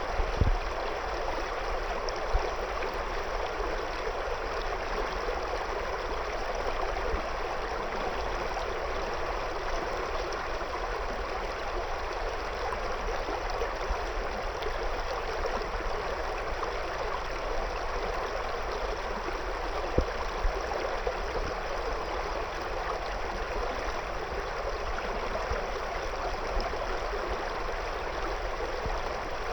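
River water flowing and burbling over stones, a steady rushing with a few brief splashes.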